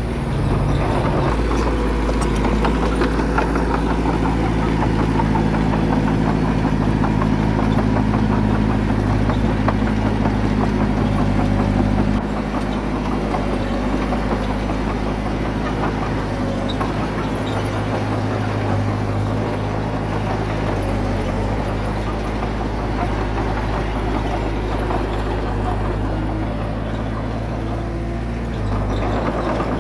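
Heavy diesel engine of earthmoving equipment running steadily. It drops in level about twelve seconds in and picks up again near the end.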